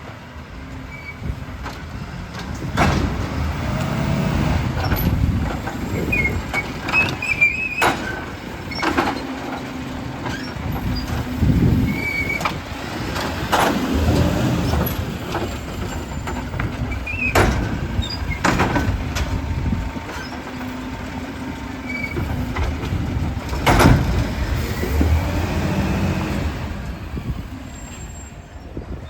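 Glass collection truck working: engine and hydraulics running with a steady hum and whine, broken by several loud crashes and bangs as containers are emptied into it.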